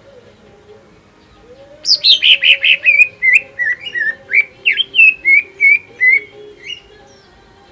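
A cucak ijo (green leafbird) singing a rapid string of short, sharp whistled notes, about five a second. The song starts about two seconds in and stops near the seven-second mark.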